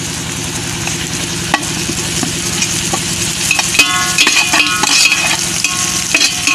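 Metal spatula stirring and scraping sliced onions and green chillies frying in oil and ghee in a heavy-bottomed metal pot: a steady sizzle with occasional clinks, over a steady low hum. About four seconds in, the spatula scrapes the pot bottom with a ringing metal-on-metal squeal for a second or so, and again briefly near the end.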